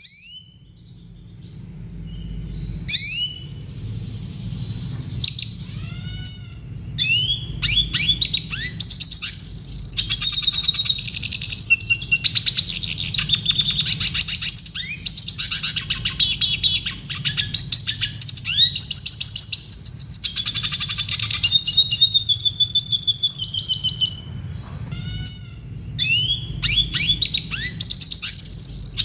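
Red siskin singing: a long, fast run of twittering trills, chirps and upward-sweeping whistled notes. It starts sparse and becomes almost continuous from about eight seconds in, over a low steady hum.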